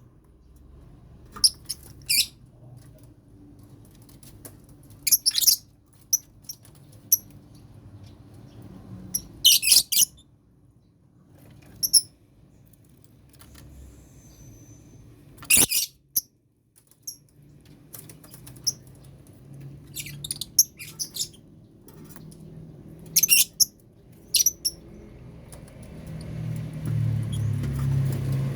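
Lovebirds giving short, shrill chirps in scattered clusters a few seconds apart. A low rumble builds near the end.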